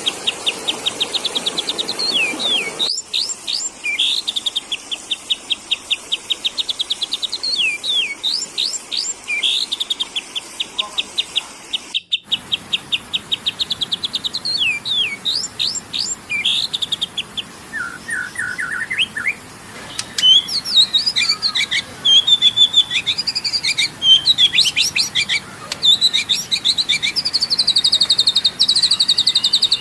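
Sooty-headed bulbul (kutilang) lure calls: fast runs of sharp, high chirps repeated over and over, turning into more varied, louder chattering calls in the last third. A faint background hiss cuts out suddenly about three seconds in.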